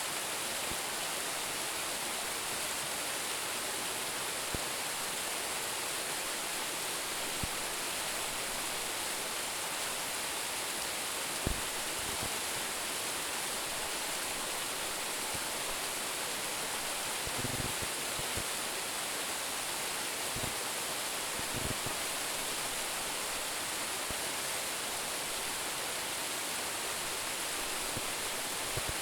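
Steady rush of a waterfall of about 10 m, Roumon Falls, falling water making an even, unbroken roar. A few faint low thumps come through it now and then, the clearest about a third of the way in.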